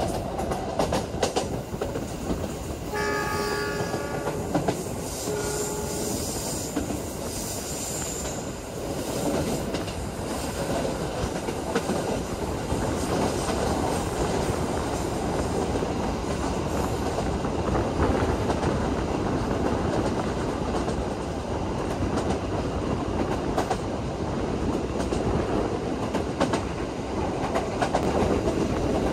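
Argo Dwipangga passenger train running at speed, a steady rumble with rail clatter. About three seconds in, a train horn sounds twice: a blast of under two seconds, then a shorter one.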